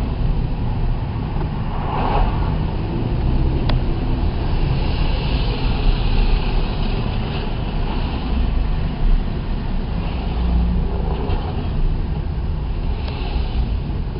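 Steady road and engine noise of a car driving along, a constant low rumble with a light hiss above it.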